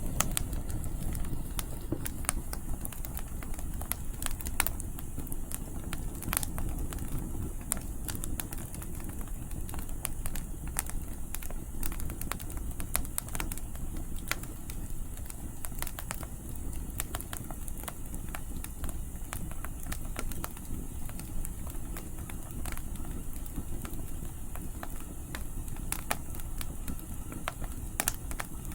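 Wood campfire crackling with frequent sharp pops and snaps, over a steady low rumble of wind.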